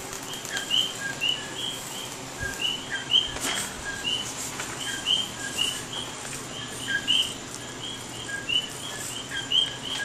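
Small birds chirping steadily, short high chirps about three a second, with a few faint clicks.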